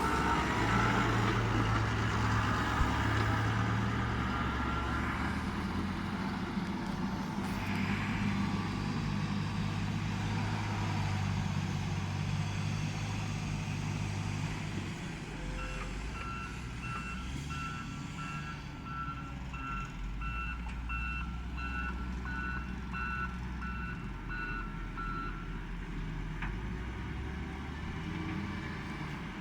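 New Holland T7 tractor engine running while unloading chopped silage. From about halfway, a reversing alarm beeps in a steady, even rhythm for about ten seconds, then stops.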